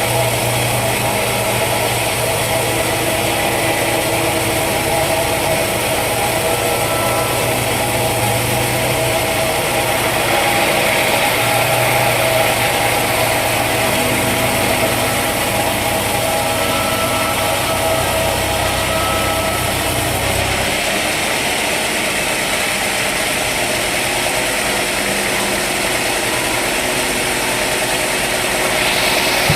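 Sawmill machinery running steadily with a continuous engine-like hum. A low hum drops out about two-thirds of the way through while the higher machine sound carries on.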